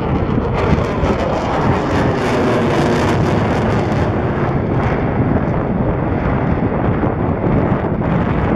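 Jet roar from the F/A-18F Super Hornet's twin GE F414 afterburning turbofans during a display pass, with the harsh high end strongest for the first few seconds before it eases off. Wind buffets the microphone.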